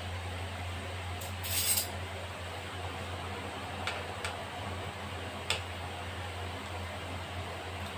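Cooking utensils clinking against a frying pan of hot oil: a short clatter about a second and a half in, then three lighter clicks, over a steady low hum.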